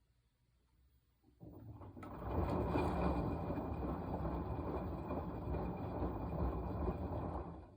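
Washing machine drum turning, tumbling the wash for about five seconds: the sound builds up about a second and a half in and stops suddenly near the end, as the drum pauses between turns of the wash cycle.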